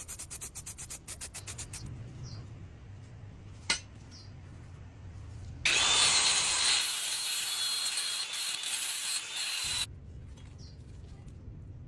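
Hand scrubbing or sanding of rusty metal mower parts: quick, even back-and-forth strokes, about seven a second, that stop after about two seconds. A single knock follows, then a loud steady hiss lasting about four seconds.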